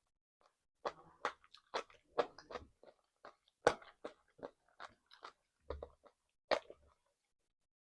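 Close-up chewing and crunching on chicken feet: a string of sharp, irregular crunches between bites.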